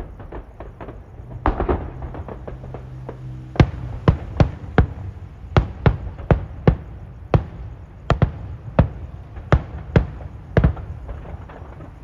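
Fireworks going off: a short spell of small crackling pops, then from about a third of the way in a long run of sharp bangs, roughly two a second.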